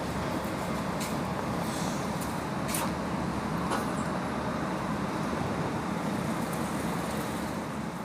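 Train running: a steady rumble of wheels and motion, with a few sharp clicks.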